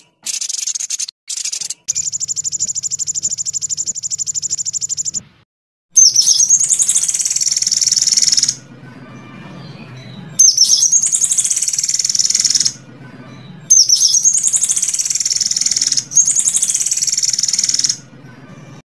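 Recorded songbird song: a fast, high, even trill, then three loud runs of high, downward-sweeping phrases, each starting and stopping abruptly as if spliced.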